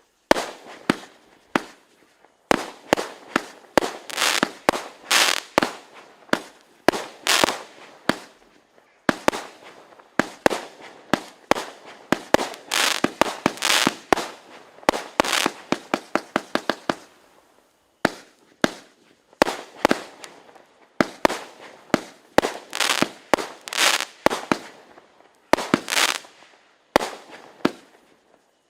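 Texas Tornado 88-shot firework barrage cake firing a rapid run of shots, several a second, broken by a few brief pauses.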